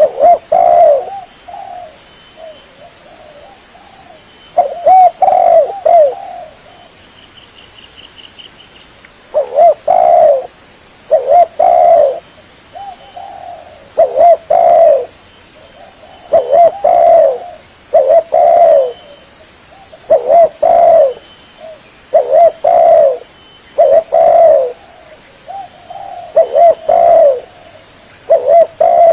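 Spotted dove (tekukur) cooing: loud, repeated phrases of several coos, one roughly every two seconds with short pauses between groups. It is a lure call for drawing in wild spotted doves.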